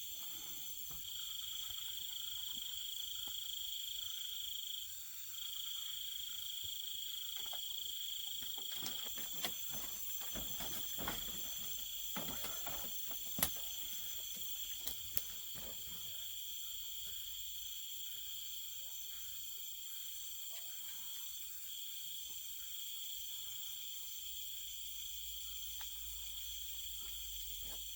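Night insects trilling steadily in a continuous high-pitched chorus. A handful of sharp clicks come in the middle, the loudest about halfway through.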